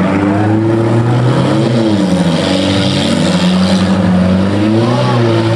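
Several demolition derby cars' engines running together and revving, their pitch rising and falling and overlapping.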